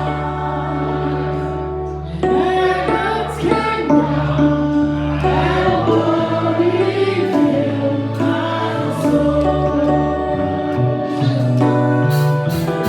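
Worship song sung by a group of singers over band accompaniment, with steady held bass notes. Sharp percussion hits come in near the end.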